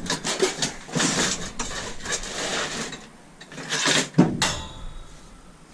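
Scrap metal pieces clattering and rattling as they are handled and tossed aside, with a louder metal clank about four seconds in.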